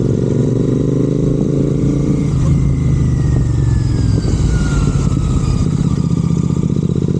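Royal Enfield Continental GT 650's parallel-twin engine running through an aftermarket Red Rooster exhaust while riding. The note builds for about two seconds, eases off as the throttle is rolled back, then runs steadily.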